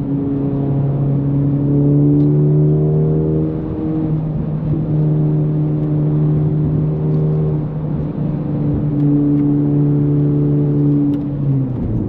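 Honda Civic Type R FL5's turbocharged four-cylinder engine and AWE Touring exhaust under acceleration. The engine note climbs gently, breaks briefly about four and eight seconds in, and drops near the end.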